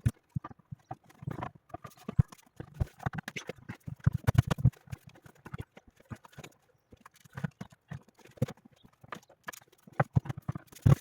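Irregular clicks, taps and knocks of hard parts being handled and fitted together, thickest around four seconds in and again near the end.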